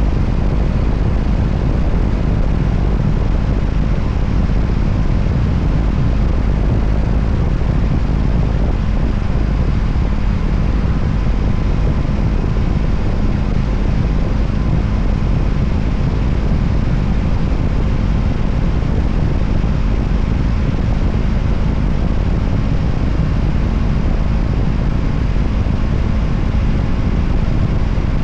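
Voge 300ACX motorcycle cruising at a steady speed: a steady engine note under a loud, even rush of wind and road noise.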